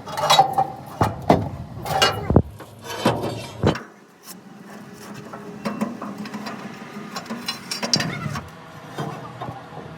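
Clanking and knocking of hand tools on metal truck parts, with a run of sharp knocks in the first four seconds and lighter clatter after that.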